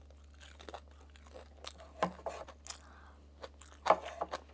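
Close mouth sounds of a person chewing a fried gimmari (battered seaweed roll stuffed with glass noodles): soft crunches and wet chewing clicks, loudest about two seconds in and again near the end.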